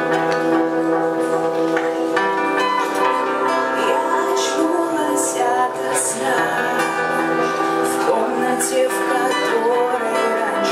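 Live band playing a song, with guitar and a singing voice over sustained instrumental chords.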